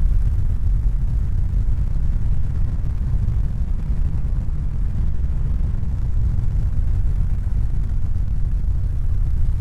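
A steady, loud low rumble with a fainter hiss above it, unchanging throughout.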